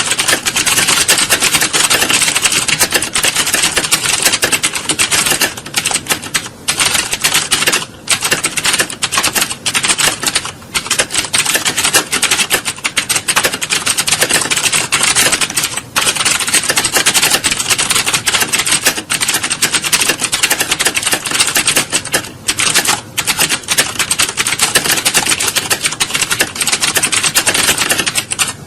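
Computer keyboard being typed on fast: a dense, continuous clatter of keystrokes broken by a few brief pauses.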